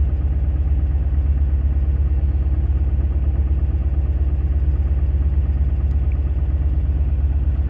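A yacht's inboard engine running steadily at low revs while the boat motors along: an even, deep throb that does not change.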